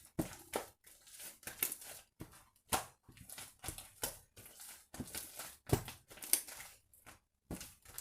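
Slime mixed with angel clay being kneaded and pressed by hand, giving squishing, crackling sounds in quick, irregular bursts with brief pauses.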